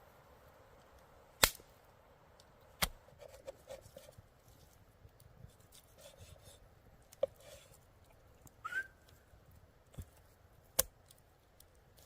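A few sharp, separate knocks and clicks, the loudest about a second and a half in, with one short squeak that rises then holds near the two-thirds mark, over a faint steady background.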